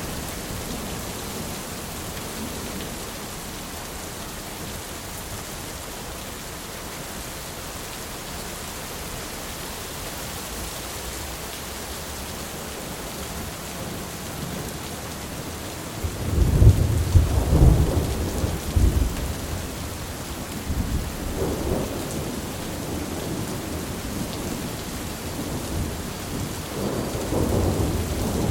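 Steady rain with rolling thunder: the sky rumbles loudly for a few seconds just past the middle, then again more softly, and another rumble builds near the end.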